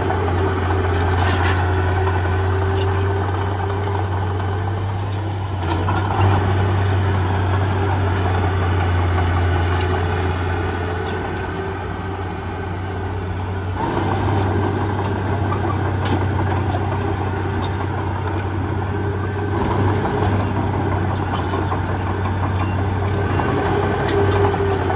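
Heavy diesel engine of earthmoving machinery running steadily, its level easing and picking up again a few times, with scattered light clicks and clanks.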